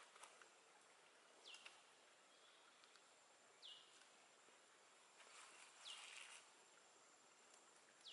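Faint bird call repeated four times, about every two seconds: a quick falling whistle that levels off into a short steady note. A soft rustle comes just past the middle, over a quiet background hiss.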